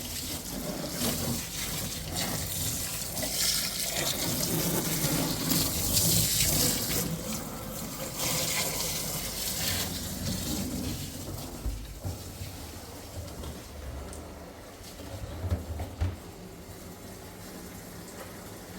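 Water running from a tap into a sink, loudest in the first half and easing off later, with a few short knocks near the end.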